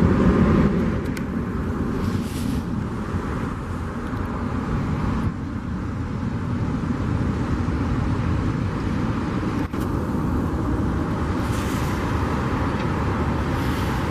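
Rolls-Royce Trent 700 jet engines of an Airbus A330-243F freighter rumbling as it climbs away after takeoff, a steady low roar that eases slightly after the first second.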